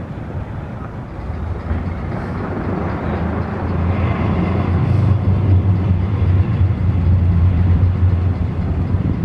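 Low engine rumble of a heavy vehicle in street traffic, growing louder over the first few seconds and then holding steady.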